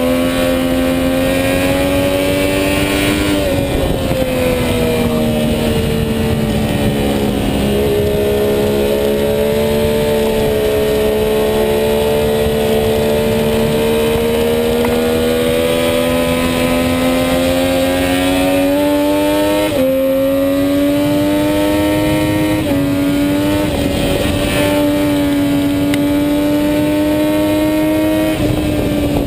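Sport motorcycle engine heard from on board at speed, its note climbing slowly under acceleration. The climb is broken by gear changes that step the pitch, most sharply about three and a half seconds in and again near twenty seconds, with a steady rush of wind behind it.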